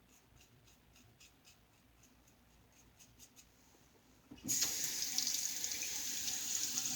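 A few faint light clicks, then past halfway a sink tap is turned on and water runs steadily into the basin.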